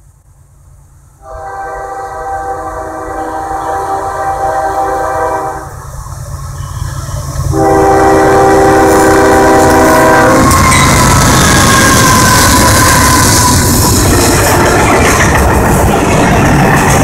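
Freight locomotive air horn blowing a long blast, a short break, then a second blast as the train closes in. From about eight seconds in, the loud rumble and clatter of the diesel freight train's locomotives and cars passing close by.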